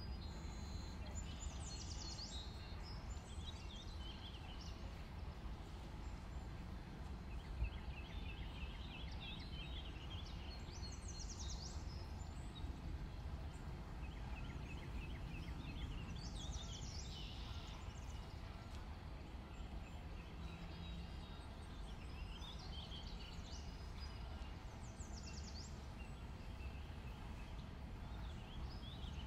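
Small birds chirping and trilling in short high bouts every few seconds, over a steady low hum.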